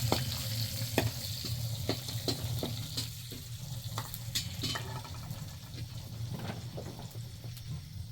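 Food frying in a pan: a steady sizzle that slowly dies down, with scattered sharp pops and crackles.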